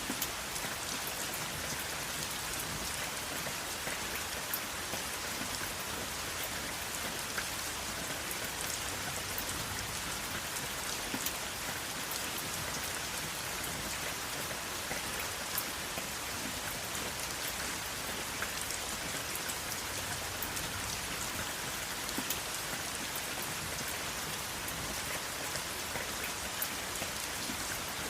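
Steady rain falling, with individual drops ticking on a hard surface here and there.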